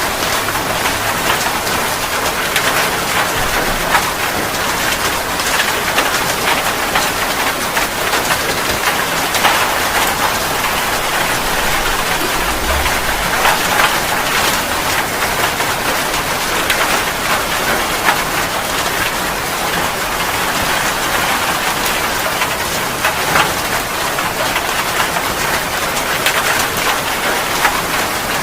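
Rain falling steadily: a dense, even hiss of drops with many sharp individual drop hits.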